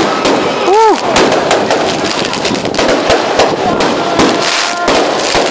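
Many New Year's Eve fireworks going off at once, a dense, continuous run of sharp bangs and crackles.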